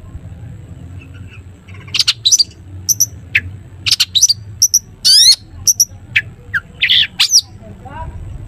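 Long-tailed shrike (cendet) singing: after about two seconds of low background hum, a fast run of loud, sharp calls with quick downward-sweeping notes and harsh chatters, stopping shortly before the end.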